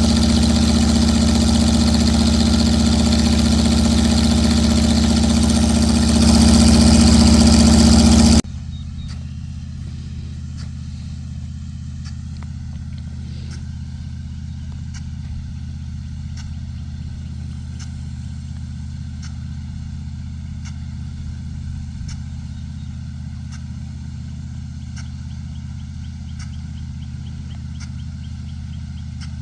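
A large engine running loudly and steadily, getting louder for about two seconds, then giving way suddenly to a much quieter steady low engine hum with faint regular ticks.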